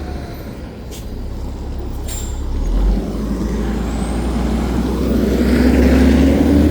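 Garbage truck's diesel engine running steadily, with two short air hisses about one and two seconds in. From about five seconds in, the engine revs up and gets louder.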